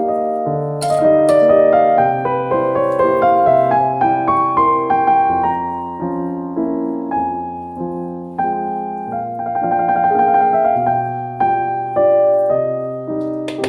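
Background piano music: a slow, gentle melody over sustained bass notes.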